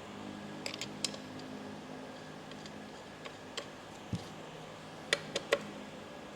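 Scattered light metallic clinks and ticks of small parts and tools being handled during transmission reassembly, three of the sharpest coming close together near the end, over a steady low hum.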